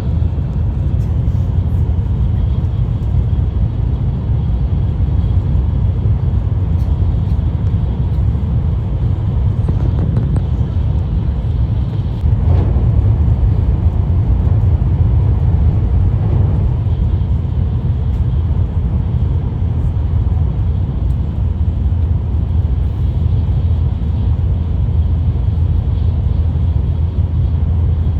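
Steady low rumble of a Hikari Shinkansen bullet train running, heard from inside the passenger car. It grows a little louder for a few seconds about halfway through.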